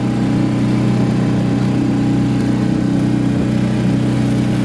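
A small engine running steadily at one speed, with an even hum and no change in pitch.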